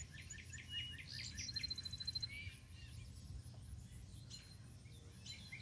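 Birds calling: quick repeated chirps through the first second or so, then a fast, even trill of high notes, over a faint steady low rumble.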